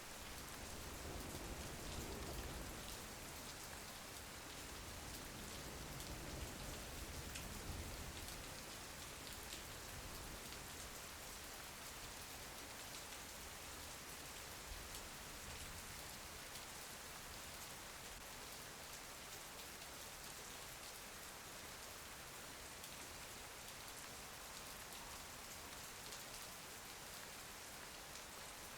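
Steady rain falling, an even hiss of drops, with a low rumble swelling and fading over the first eight seconds or so.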